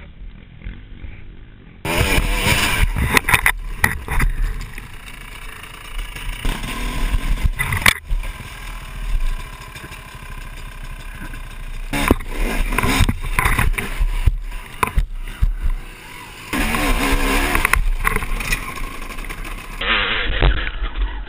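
Dirt bike engine running and revving on a trail, with rough wind-like noise and several sharp knocks.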